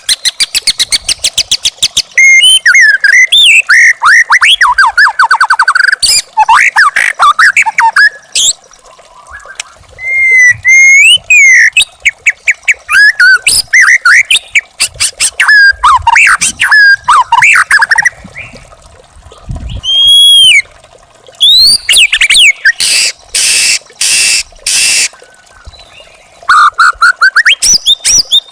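White-rumped shama singing a varied song of rapid repeated notes, whistled rising and falling phrases, and quick trills. About three-quarters of the way through, a run of harsh, scratchy bursts breaks in before the whistled phrases resume.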